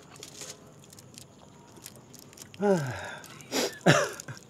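A person making two short wordless vocal sounds, each falling in pitch, about halfway through and near the end, over faint clicks and rustling.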